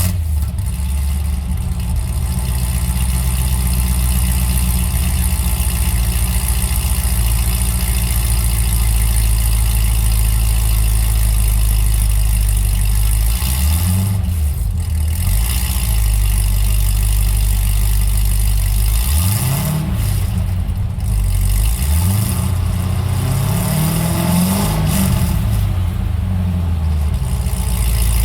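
Exhaust of a newly installed engine, just started and idling steadily, then revved in several short rises and falls in pitch over the second half.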